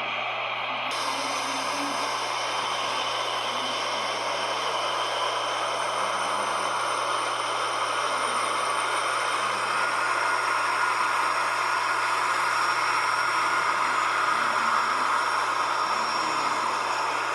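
Airbus A319 jet engines running with a steady rushing roar and a high-pitched whine, growing slowly louder.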